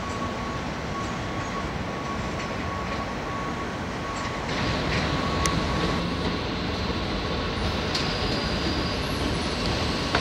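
Trains moving through a large station: a Class 156 diesel multiple unit pulling away, with a thin steady whine. About four and a half seconds in, a louder rush of wheels on rails takes over as an electric multiple unit rolls past.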